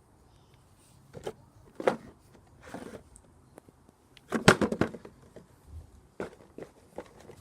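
A cardboard box being struck with a vacuum cleaner pole: a run of separate sharp knocks and scrapes, the loudest a quick cluster of hits in the middle.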